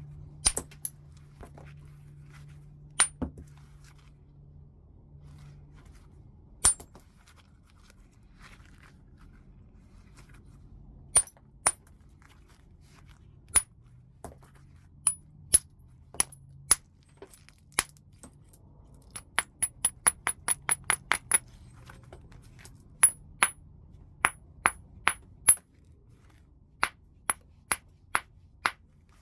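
Heat-treated Burlington chert being knapped: a string of sharp, glassy clinks as the stone is struck, spaced a second or several apart. About two-thirds of the way through there is a quick run of a dozen or so light taps.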